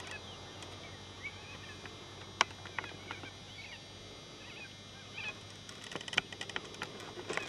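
Birds chirping over a steady background hiss, with several sharp clicks, the loudest about two and a half seconds in.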